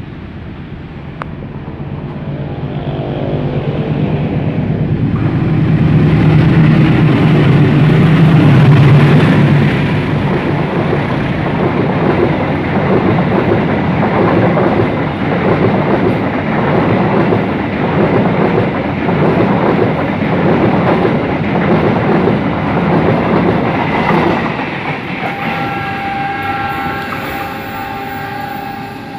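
Passenger train passing close by: it grows louder over the first ten seconds or so, then the coaches' wheels clack in a steady rhythm over the rail joints before fading away. Near the end a steady chord of tones comes in.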